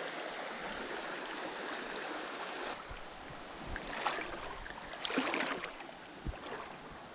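Creek water running steadily, with a high, steady insect trill joining about three seconds in and a few light knocks or splashes near the middle.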